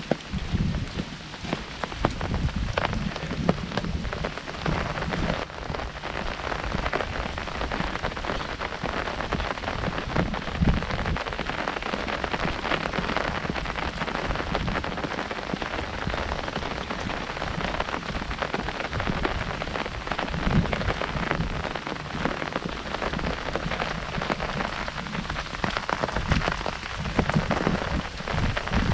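Heavy rain falling on an umbrella held overhead: a dense, steady patter of many drops striking the canopy.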